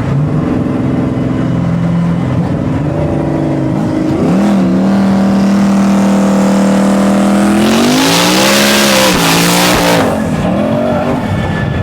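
Car engine pulling hard in a street race, its pitch stepping up through gear changes and then holding high. About eight seconds in, a loud tire hiss lasts a couple of seconds as the car spins on a bad patch of pavement, with the engine revs swinging up and down, then it settles back to a steady drone.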